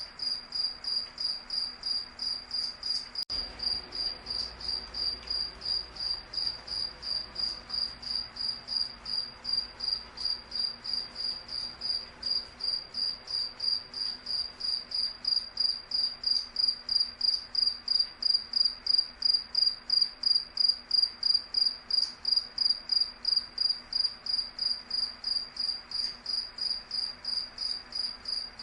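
A cricket chirping: one high-pitched chirp repeated evenly, about three times a second, growing somewhat louder about halfway through.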